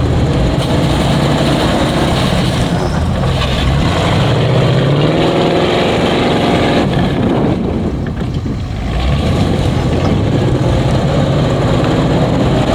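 Off-road vehicle engine running loudly under load. Its pitch rises about four seconds in and eases off around eight seconds before picking up again.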